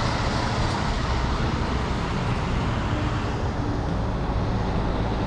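Steady traffic noise: an even low rumble with road hiss, with no single event standing out.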